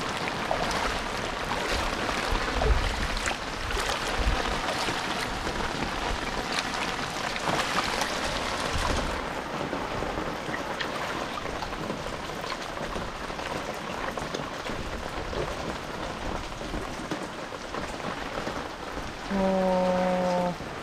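Rain falls steadily, with scattered drop ticks. Near the end a short pitched tone, falling slightly, sounds for about a second over the rain.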